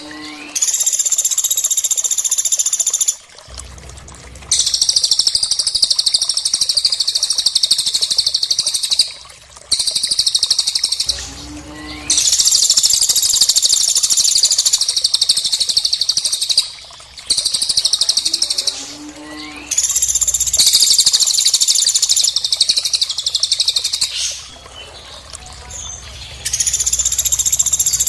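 Cililin and pelatuk (woodpecker) calls: long, high-pitched, rapid trilling phrases of a few seconds each, repeated with short pauses between them, about seven times.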